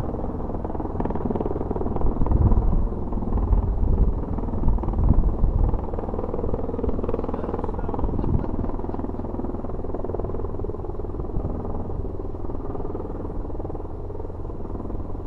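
CV-22 Osprey tiltrotor's rotors and turboshaft engines running, with a deep rotor thumping that is loudest a few seconds in, then a steadier rumble that eases off slightly.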